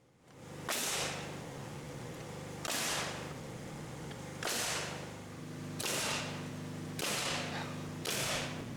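A nail gun driving nails into wood blocking, six sharp shots about one to two seconds apart, each trailing off in a short hiss, over a steady motor hum.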